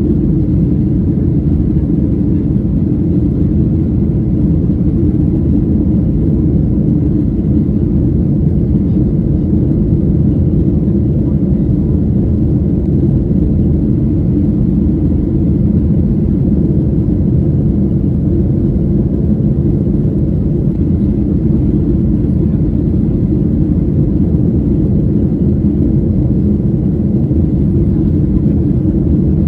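Boeing 737-800's CFM56-7B jet engines and airflow making a steady low rumble with faint constant engine tones.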